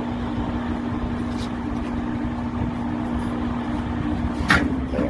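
Electric motor of a 10-ton mechanical log splitter (220 V single-phase, 1500 W) running with a steady hum. One sharp crack about four and a half seconds in.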